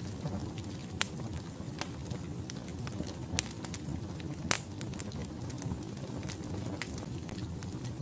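Wood logs burning in a fireplace: a steady low rush of flame with scattered sharp crackles and pops, the loudest about a second in and twice more around the middle.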